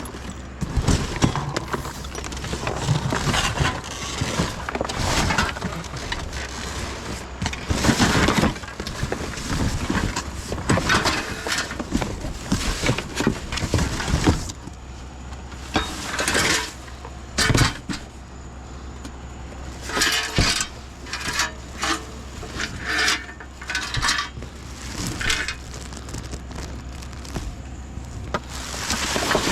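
Junk being rummaged through and moved: irregular clanks, rattles and clinks of metal and glass items knocking together, over a steady low hum.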